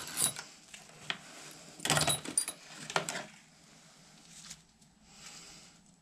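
Scattered sharp clicks and knocks of tools and parts being handled, with a cluster of them about two seconds in and another about three seconds in, then fainter rustling.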